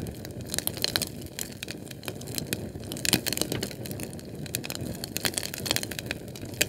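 Fire crackling: irregular sharp pops and snaps, several a second, over a steady low rumble of burning.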